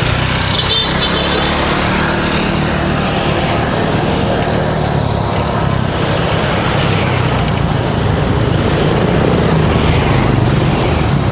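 Steady street traffic noise, with motorbike and car engines running close by.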